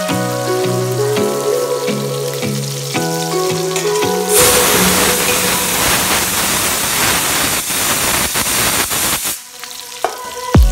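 Electronic background music with a deep bass line for about four seconds, then chicken pieces frying in oil in a steel pot: a loud, steady sizzle with crackles that cuts off abruptly about a second before the music returns.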